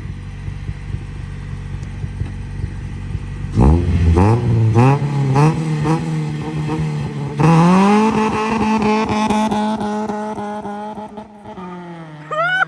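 Turbocharged B16 Honda Civic EG hatchback with a Vibrant muffler launching: the exhaust goes from a low idle to hard revving about three and a half seconds in, pitch climbing and dipping through a few rev surges, stepping up again near the middle, then holding a steady note while it fades away.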